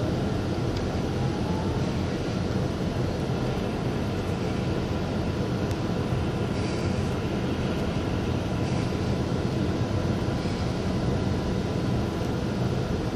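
Cabin noise inside a GYSEV Ventus (Stadler KISS) electric multiple unit pulling slowly out of a station: a steady low rumble with a faint steady high tone. A short rising whine comes about a second in.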